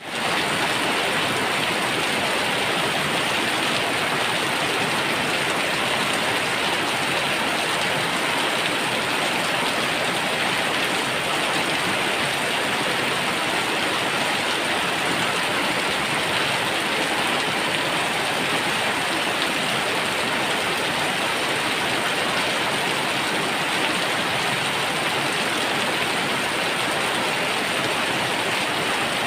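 Heavy rain falling steadily, an even hiss with no breaks or separate splashes.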